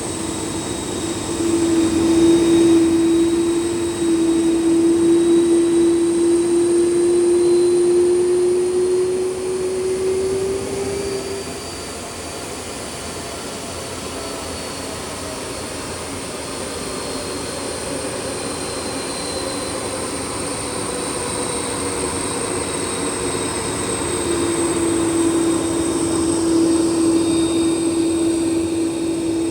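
Airbus A330 jet engines running: a steady rushing hum with whining tones that drift slowly in pitch, a low whine fading out about a third of the way in and coming back near the end.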